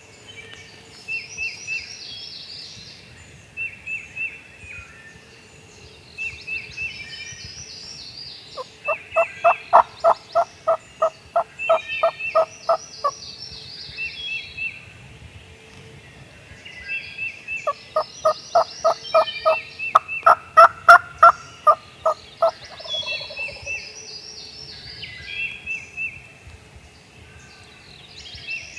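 Wild turkeys calling, with two long series of loud, evenly spaced calls at about three a second, one near the middle and one toward the end. Smaller birds sing short repeated phrases throughout.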